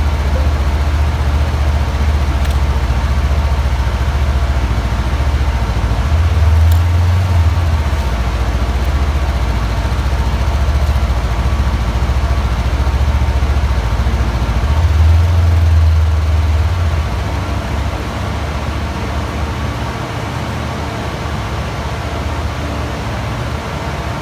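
Honda CB500F motorcycle's parallel-twin engine running at low speed, a steady low rumble that swells twice and eases off somewhat after about two-thirds of the way through.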